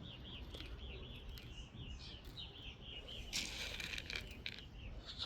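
A songbird calling faintly in a quick run of repeated short chirps, about four a second, that stops about three seconds in; a brief hiss follows.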